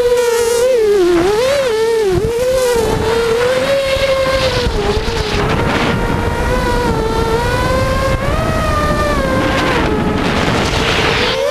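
FPV quadcopter motors and propellers whining, the pitch wavering up and down with the throttle, dipping about a second in and rising near the end.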